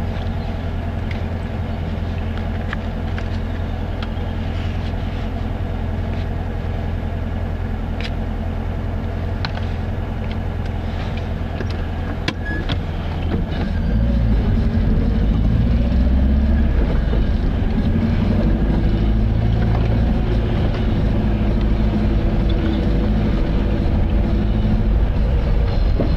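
A car on the move, with a steady engine hum and road noise. About halfway through, the low rumble grows louder and rougher, with a few light clicks along the way.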